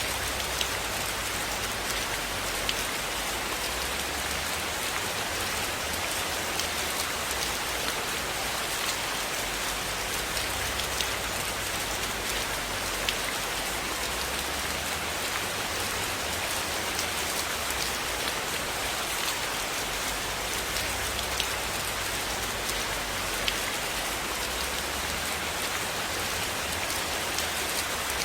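Steady rain falling, an even dense hiss with scattered small sharp ticks of drops.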